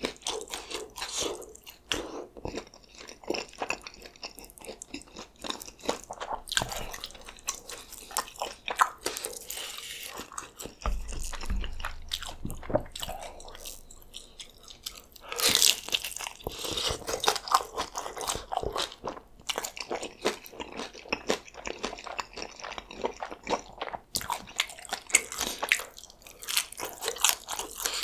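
Close-miked biting and chewing of birria tacos, with dense crunching throughout, busiest about halfway through. There is a dull low thump about 11 seconds in.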